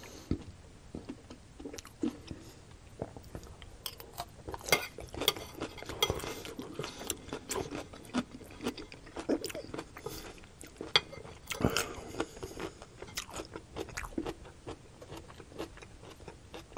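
Close-miked chewing of stir-fried vegetables, with many irregular crisp crunches and bites.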